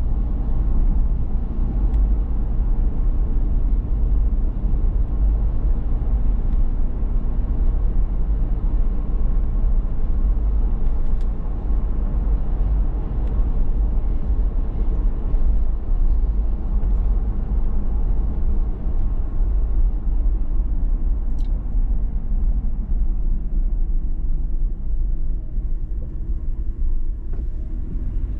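Steady low rumble of road and engine noise from a 2019 Toyota 4Runner TRD Pro's 4.0-litre V6 while it is driven, with a faint steady engine hum. A short high chirp sounds once, about three-quarters of the way through.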